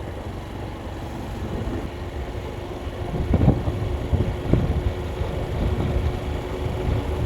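A vehicle on the move: steady low engine and road rumble with a faint constant hum, and a few short thumps from about three seconds in.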